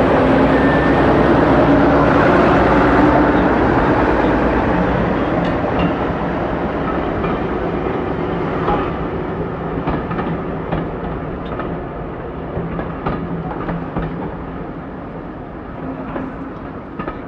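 Heritage railway train running past close by, then slowly fading away. Scattered clicks come from the wheels passing over rail joints as it recedes.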